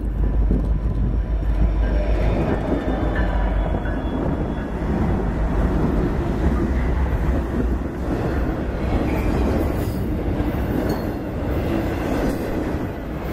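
Norfolk Southern diesel freight locomotives passing close by with a deep engine rumble, which gives way about halfway through to the rolling noise of intermodal spine cars loaded with trailers, their wheels running over the rails.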